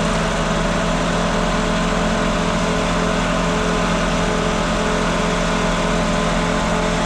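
Saab 900 engine idling steadily, with a constant hum and whine over the running noise. The loose ground wire has just been rewired, and the idle runs while the charging voltage is checked.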